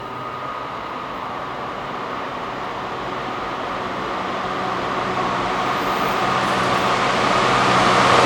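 Class 66 diesel-electric locomotive (EMD two-stroke V12) approaching, its engine drone and rail noise growing steadily louder.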